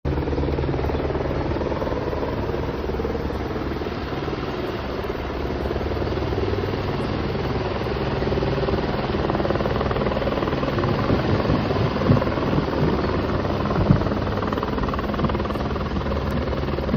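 Steady mechanical engine rumble with a low hum under it, holding an even level.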